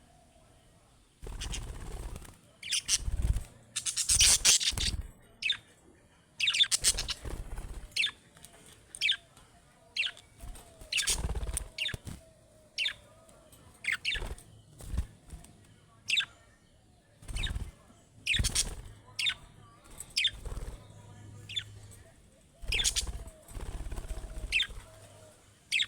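Budgerigars chirping in many short, quick falling calls, with several louder bursts of wing fluttering among them.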